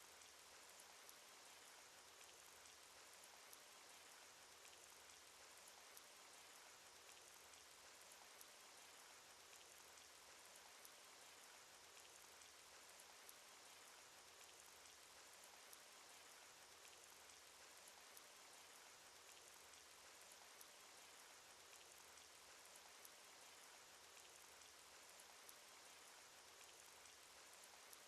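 Faint, steady rain sound effect: an even hiss of rainfall with an occasional sharper drop tick every second or two.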